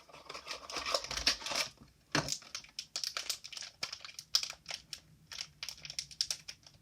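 Plastic packaging being handled, crinkling and rustling in a string of short crackles, heaviest in the first two seconds.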